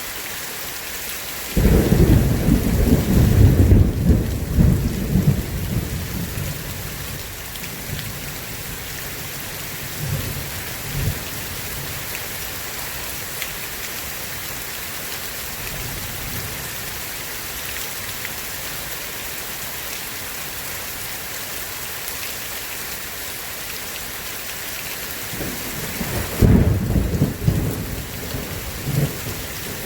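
Steady heavy rain hissing, with two rolls of thunder: a sudden loud low rumble about a second and a half in that fades away over several seconds, and another rumble building near the end.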